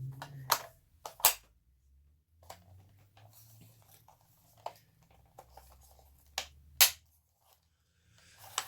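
Sharp clicks and knocks of plastic Roomba parts being handled and snapped back together, about six separate strikes spread out with quiet between them.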